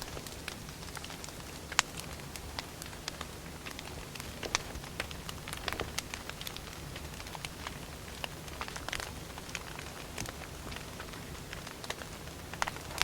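Firewood burning in a fire, crackling with irregular sharp pops, one louder pop about two seconds in.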